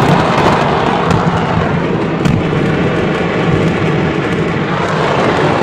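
A mass of fireworks going off together in a continuous rumble and crackle, with scattered sharper pops, heard from inside a car.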